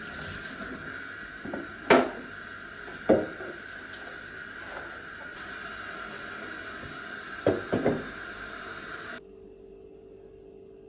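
Household knocks and clatters: a sharp knock about two seconds in, another a second later, and three quick knocks near the end, over a steady hiss that cuts off suddenly about nine seconds in, leaving a faint low hum.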